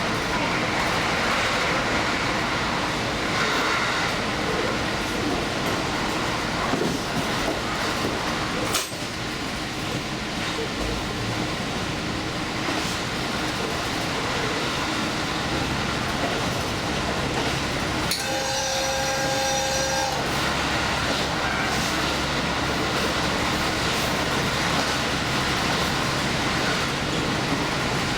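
Diesel express train running along the track. About two-thirds of the way through, a two-tone train horn sounds for about two seconds.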